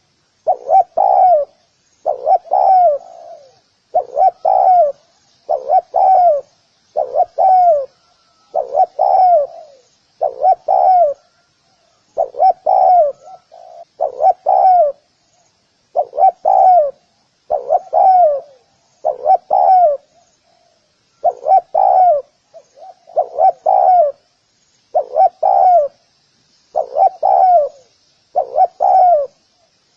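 Spotted dove cooing: the 'gù' call repeated steadily, a phrase of a few quick notes ending in a falling note about every two seconds. Faint high chirping runs underneath.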